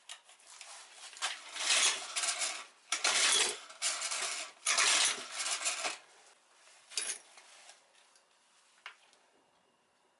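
Small metal objects clinking and rattling as they are handled, in several bursts over about four seconds, then one shorter rattle about a second later.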